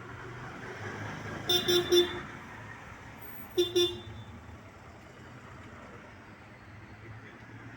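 A vehicle horn tooting three quick times, then twice more about two seconds later, over a steady background hum of traffic.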